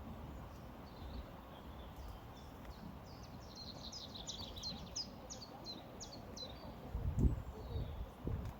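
Songbirds singing over a steady low rush of flowing river water. Midway one bird gives a rapid series of short descending notes, about four a second, and a brief low rumble comes near the end.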